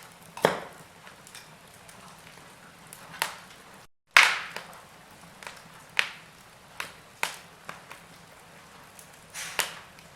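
Wood fire crackling in a fireplace: sharp pops and snaps every second or so over a soft steady hiss, the loudest pop about four seconds in, just after a split second of silence.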